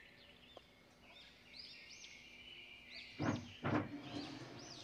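Small birds chirping faintly in the background, short rising-and-falling calls several times over. A little past three seconds in come two short scrapes, the loudest sounds here, from a spatula spreading thick barfi mixture over a steel plate.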